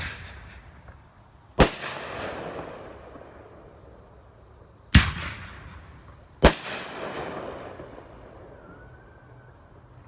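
Fireworks bursting: three loud sharp bangs, one after the first couple of seconds and two more close together near the middle. Each bang trails off over a second or two.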